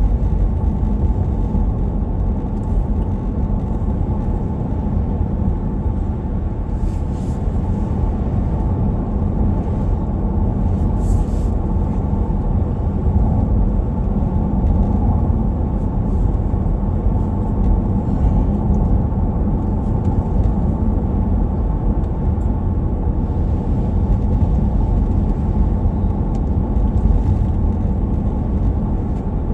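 Steady engine and tyre rumble of a vehicle being driven, heard from inside the cabin.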